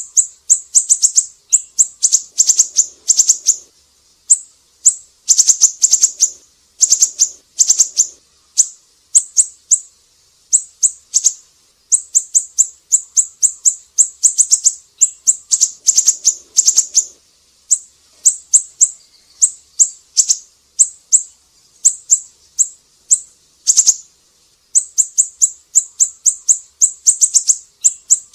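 Siri-siri songbird singing: rapid trains of high, sharp chirping notes in short bursts, repeated one after another with brief pauses.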